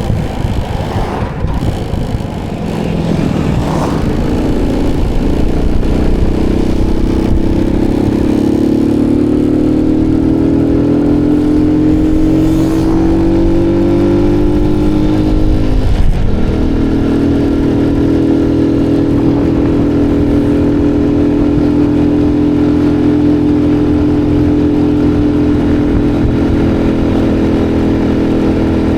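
Motorbike engine under way, its pitch climbing steadily for over ten seconds as it accelerates, then dropping suddenly partway through and holding steady at a constant speed.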